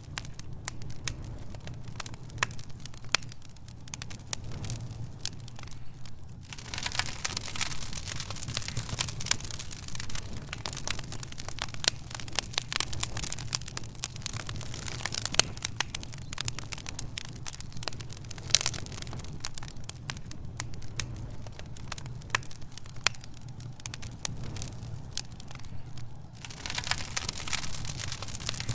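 Wood fire crackling in a fireplace: many sharp pops and snaps over a steady low background. The crackling is sparse for the first few seconds, grows dense about six seconds in, and thins out again briefly before picking up near the end.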